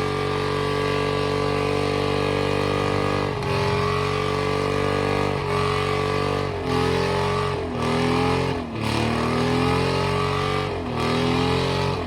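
A vehicle engine revving hard: it is held at high revs for about three seconds, then let off and revved again several times in quick succession.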